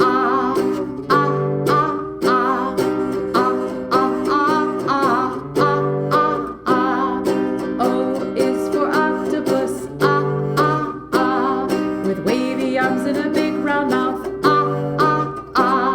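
Children's song with a voice singing over strummed ukulele or guitar chords in a steady rhythm.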